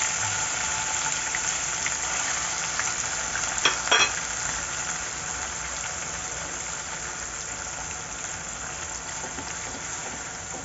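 Ground onion paste with ginger-garlic paste frying in hot oil in a pan: a steady sizzle that slowly dies down. Two sharp clinks against the pan about four seconds in.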